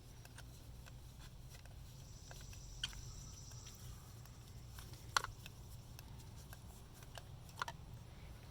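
Faint scattered clicks and light taps, three of them sharper, from a new spark plug being hand-threaded into the engine's plug well through a clear plastic tube. A low steady hum lies underneath.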